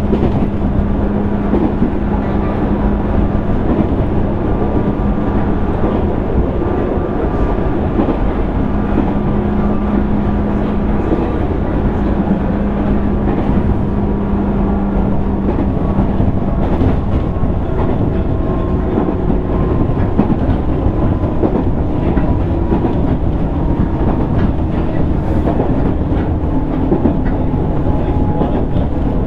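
Interior running sound of a JR East 205 series 600-subseries electric train, heard in the motor car: a steady rumble of wheels on rail under a traction-motor and gear whine whose pitch slowly falls as the train slows.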